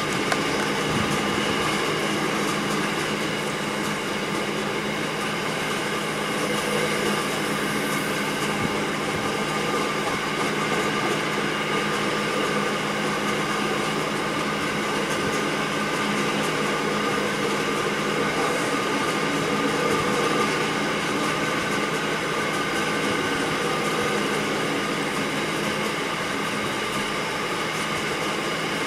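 Loaded magnetite ore wagons of a long freight train rolling steadily past on the rails. The wheel-and-rail noise is continuous and even, with a constant hum running through it.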